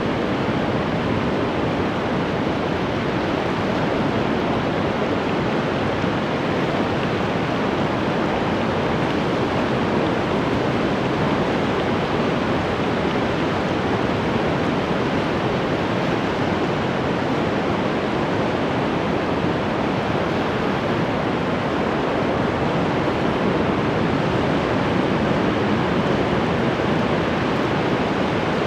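Ocean surf: a steady, even wash of breaking waves with no separate crashes standing out.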